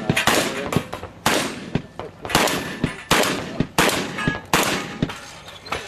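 Gunfire on a shooting range: about a dozen sharp shots in irregular strings, each with a short ringing tail.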